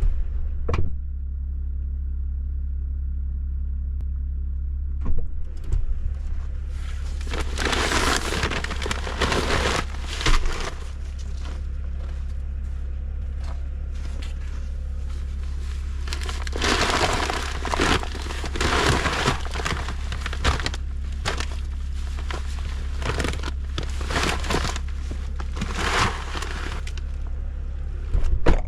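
Bobcat E50 excavator's diesel engine idling steadily as it warms up, with several spells of rustling and crunching as bags of pelleted rabbit feed are handled at a drum.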